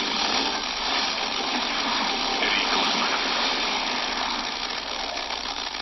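Steady loud hiss of FM radio static from weak, poor-quality reception of a broadcast station.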